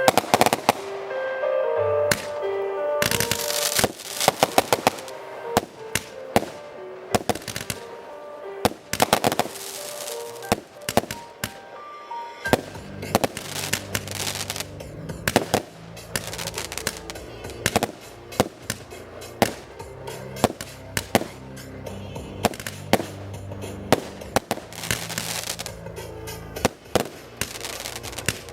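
Fireworks display: shells bursting in a rapid, irregular series of sharp bangs and crackles over loud music. About twelve seconds in, the music changes to a deeper, bass-heavy passage.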